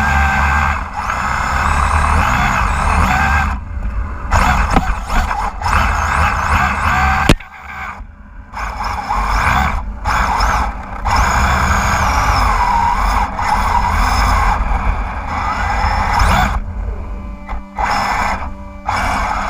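RC drift car's 10.5-turn brushless motor whining up and down with the throttle, with the rear tyres spinning and scrubbing as it drifts. The sound cuts out briefly several times as the throttle lifts. There is a sharp click about seven seconds in, followed by a quieter second.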